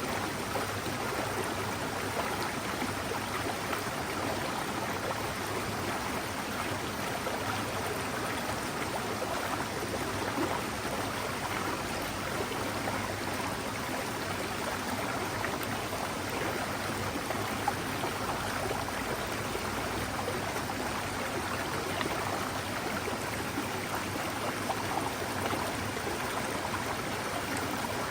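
Mountain stream flowing steadily, a continuous rush of running water.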